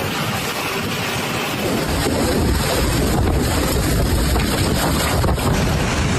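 Storm-force wind buffeting the microphone: a loud, continuous rush with heavy low buffeting that grows stronger about two seconds in.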